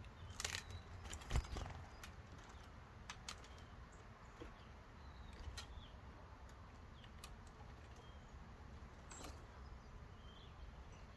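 Small birds feeding at a wooden bird feeder: sharp taps and clicks of beaks and feet on wood, bunched in the first second and a half with one more about nine seconds in, over faint short chirps.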